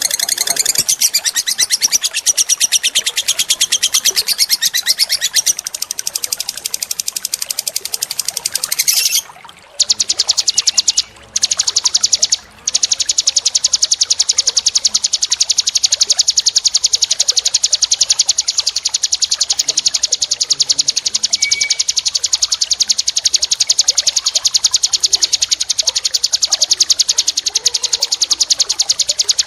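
Small songbirds giving fast, high-pitched repeated trills and chattering. About nine seconds in, the call changes after a short break to an even, rapid trill, which drops out briefly twice soon after.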